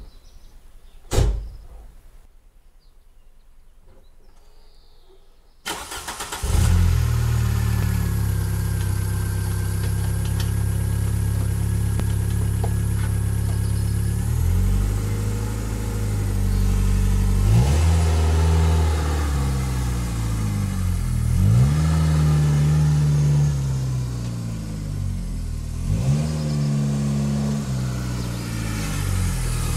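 A sharp click about a second in, then a few seconds later a car engine cranks, catches and runs on steadily, its speed rising and falling several times as the throttle is blipped.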